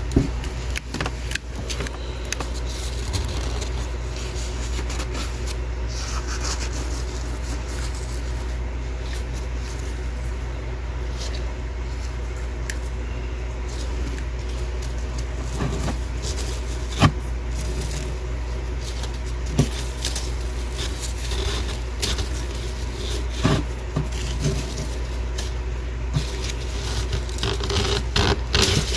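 Thick deep-freezer frost crunching and scraping, with scattered crackles and a few sharp cracks, over a steady low hum.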